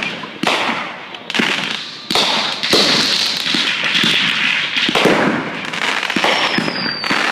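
Fireworks going off in rapid succession: repeated bangs and crackling, with a short falling whistle about six seconds in.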